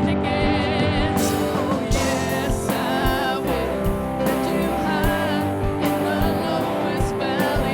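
Live worship band playing a song with singing, guitar and a steady drum beat.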